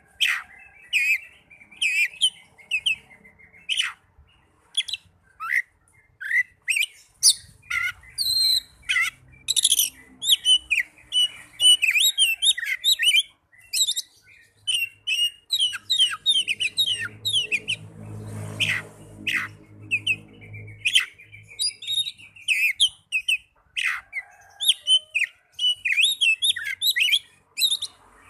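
Oriental magpie-robin song: a fast, unbroken stream of varied whistles, chirps and sharp notes, with a lower, harsher sound for a few seconds past the middle.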